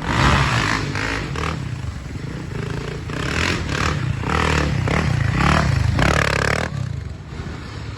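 Motor vehicle engine running and revving in repeated surges, with scraping and clattering over a steady low rumble; one rise and fall in pitch about six seconds in.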